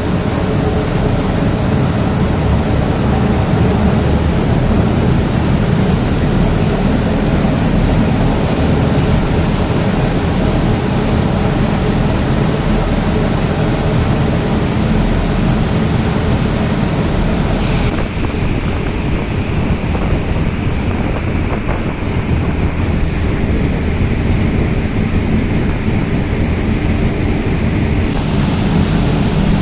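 Passenger ferry under way at speed: a steady rumble of engine and rushing water, with wind buffeting the microphone. For about ten seconds past the middle the hiss turns duller, then comes back.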